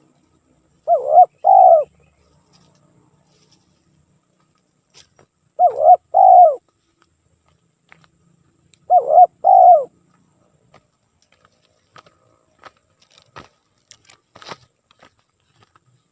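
Spotted dove (tekukur) cooing: three short two-part coo phrases about four seconds apart, used as a lure call. A few faint clicks follow near the end.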